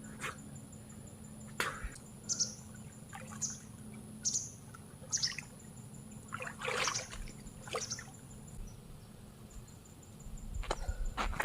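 A bird giving short, high, falling chirps about once a second, among scattered rustling and knocking sounds.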